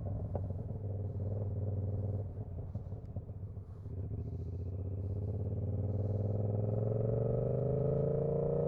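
Yamaha R7's 689 cc CP2 parallel-twin engine running through its exhaust, steady at first, easing off briefly about two seconds in, then its pitch climbing slowly and steadily as it pulls through the rest.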